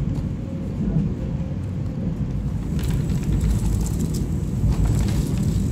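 Steady low rumble of a moving passenger train heard from inside a car, with light clicks and rattles from about halfway through.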